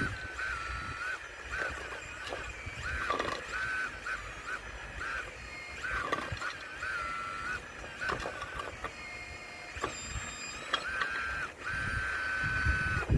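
RC excavator's electric drive whining in repeated short spurts, each rising to a steady high pitch and dropping off as a movement starts and stops, with scattered knocks and scrapes of stone.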